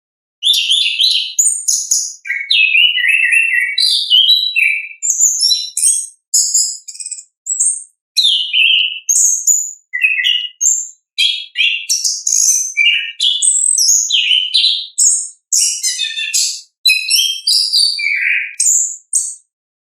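Orange-headed thrush singing its full, loud song: rapid, varied high-pitched phrases of chirps and whistled notes, delivered in bursts of a second or two broken by brief pauses.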